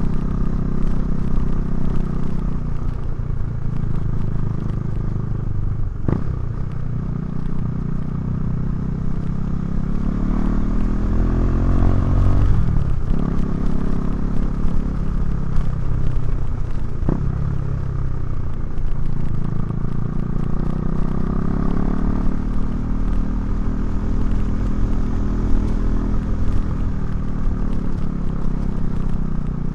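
KTM 390 Duke's single-cylinder engine through a Remus exhaust, ridden on the road: the revs rise and fall several times, with brief breaks at gear changes about six, thirteen and seventeen seconds in, over a steady low rumble of wind and road noise.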